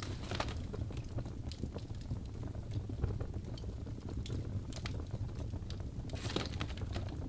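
Wood fire crackling in a fireplace: scattered snaps and pops over a steady low rumble, with a quick run of crackles right at the start and another about six seconds in.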